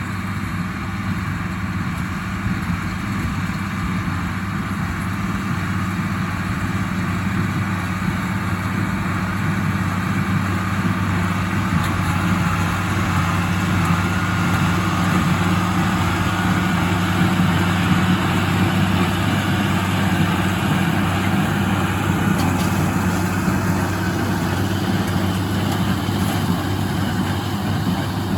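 1977 International Harvester 886 tractor's six-cylinder diesel running steadily while pulling a John Deere 348 square baler, the baler's working clatter mixed in with the engine drone.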